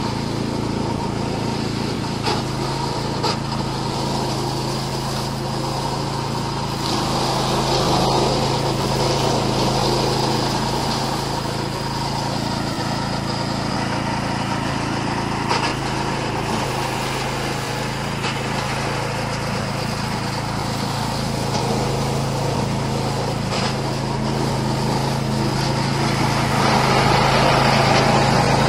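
13 hp petrol engine of a remote-controlled robotic flail mower running steadily under load as its steel blade cuts through tall grass and weeds. The sound swells louder about a quarter of the way in and again near the end.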